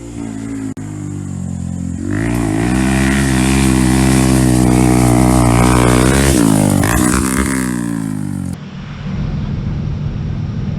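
Small motorcycle engine revving up about two seconds in and held at high revs for several seconds, then the pitch drops and wavers as the throttle comes off. Near the end a rougher, lower engine sound follows.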